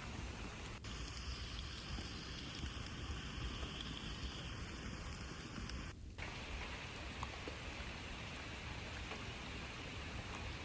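A steady, even hiss with scattered faint ticks. It changes abruptly twice, about a second in and about six seconds in.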